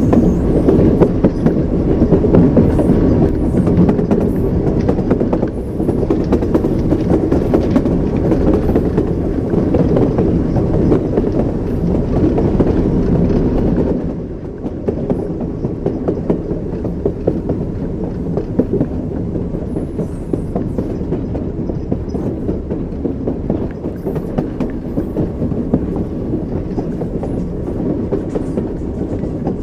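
Train wheels clacking over rail joints above a continuous heavy rumble of a train in motion. About halfway through, the sound drops a little quieter and duller.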